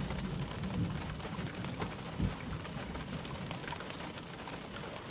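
Steady, easing rain falling, with scattered drops ticking on a surface. There is a brief low thump about two seconds in.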